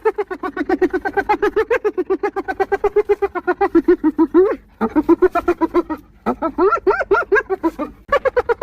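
Spotted hyena giggling: a rapid run of short, pitched, staccato whoops at about nine notes a second, in three bouts broken by brief pauses.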